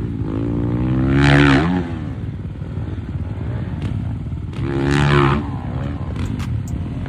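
Dirt bike engine running with two hard revs, each a rising note that swells and falls away, about a second in and again around five seconds in.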